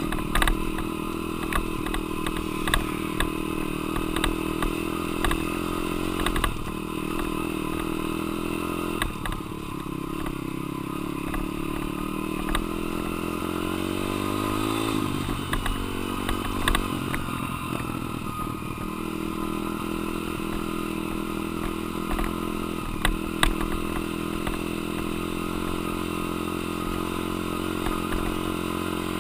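Dirt bike engine being ridden, its revs rising and falling as the rider works the throttle and gears, with sharp knocks and clatter now and then.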